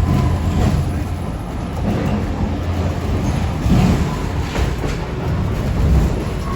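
Moving train heard from inside a passenger carriage: a steady low rumble of the wheels running on the track.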